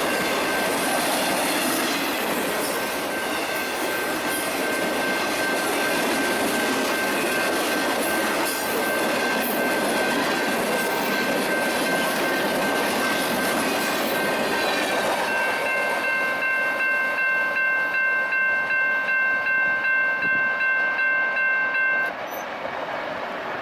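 Union Pacific freight train rolling past with a steady rushing rail noise and a thin high steady tone throughout. In the last third a multi-note ringing tone joins, pulsing about two to three times a second, and it cuts off abruptly near the end as the noise drops away.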